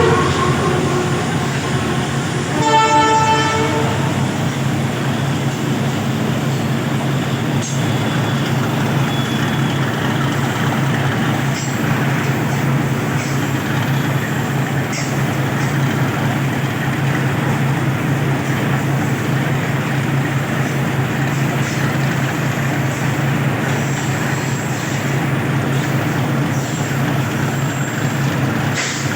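Train horn sounding once, briefly, about three seconds in, then a train running past with a steady rumble and a few sharp clicks from the wheels.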